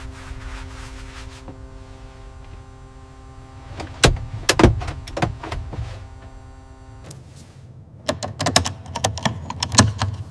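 Sharp clicks and knocks in two clusters, a few about four seconds in and a quick run of them near the end, over a steady mechanical hum that stops about seven seconds in.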